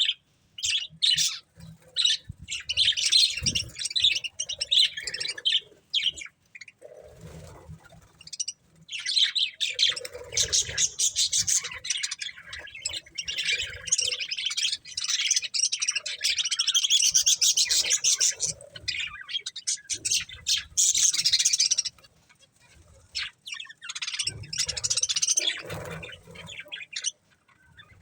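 Budgerigars chirping and chattering in long, busy bursts of quick high notes, with occasional squawks and a short lull near the end.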